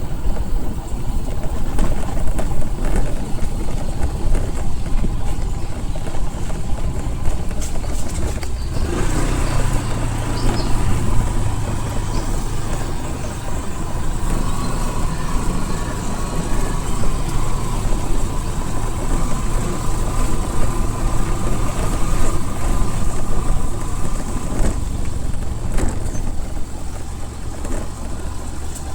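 Steady engine and road noise of a moving vehicle, mostly a deep rumble, with a faint steady whine from about nine seconds in until near the end.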